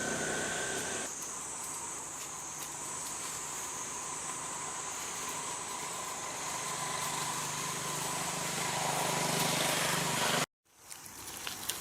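Steady outdoor drone of insects with a motor engine running underneath, the engine growing gradually louder, then everything cuts off suddenly near the end.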